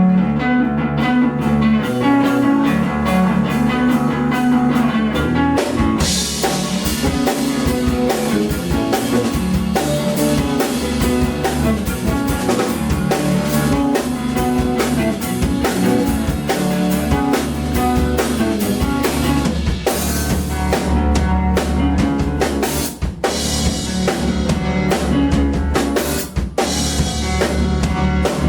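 A live rock band playing: drum kit with bass drum and rimshots, bass and guitar. The full kit comes in hard about six seconds in, with a brief drop around twenty-three seconds.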